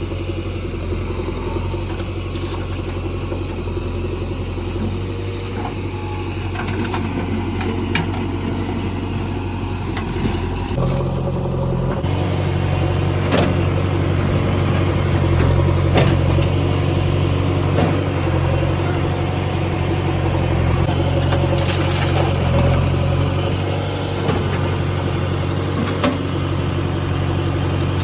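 Heavy diesel engine of earth-moving machinery running steadily. About eleven seconds in it takes on load, with its note rising and getting louder. Scattered short knocks sound over it.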